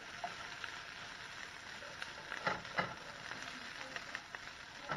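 Green beans and cheesy breadcrumbs sizzling in a skillet as they are stirred and tossed with a slotted spatula, with a couple of sharper scrapes against the pan about two and a half seconds in.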